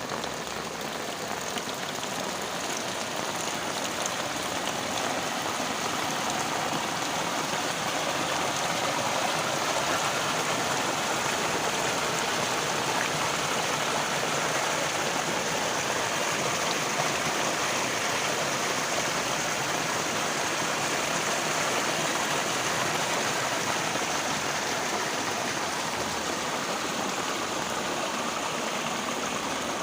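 Heavy rain pouring steadily: a dense, even hiss that swells a little a few seconds in and then holds.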